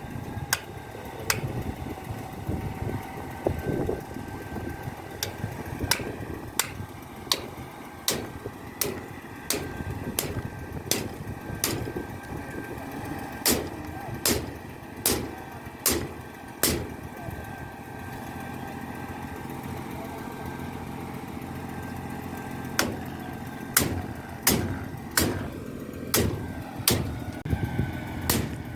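Concrete pump truck's engine running steadily, with a string of sharp knocks about once a second that stop for several seconds in the middle.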